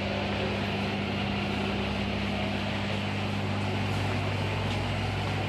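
Steady low electrical hum of aquarium pumps running, with an even hiss under it.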